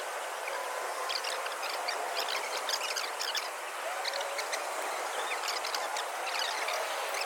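Outdoor ambience sped up tenfold: a steady hiss with many short, high bird chirps scattered throughout, and no distinct pop.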